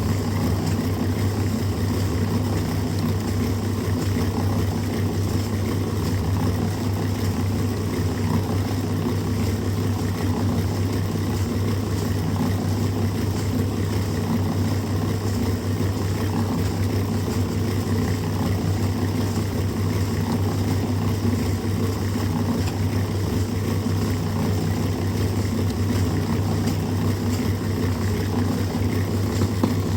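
A motor running steadily at a constant pitch, an unbroken engine-like drone.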